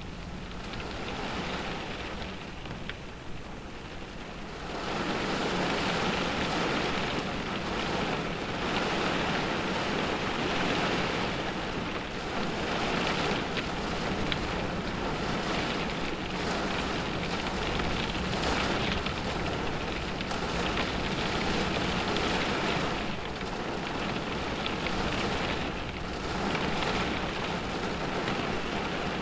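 Rain beating on a car, heard from inside the cabin, with wind blowing. It grows louder about five seconds in, then swells and eases in gusts.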